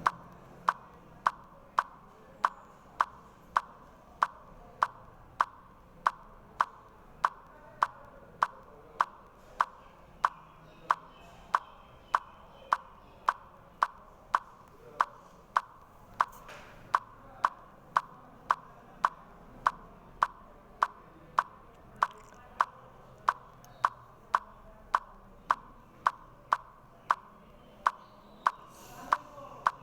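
Sharp ticks repeating at an even, steady pace, a little under two a second, like a clock or metronome.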